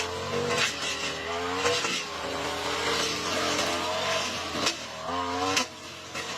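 Lawn mower engine running under load while cutting thick overgrown grass, its pitch sagging and picking back up, with a few sharp cracks of debris struck by the blade.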